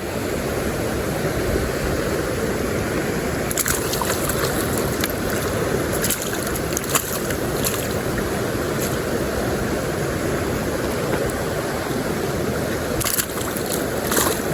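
Steady rush of a shallow mountain stream flowing over rocks, with a few brief sharp clicks now and then.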